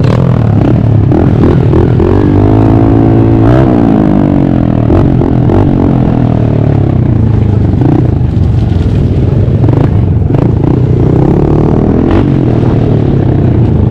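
Pit bike engine running hard, its pitch rising and falling as it revs about two to four seconds in.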